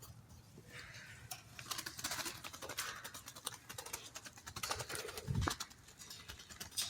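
Quiet, irregular light clicks and taps from the cage being handled and opened, with a couple of dull thumps about five seconds in.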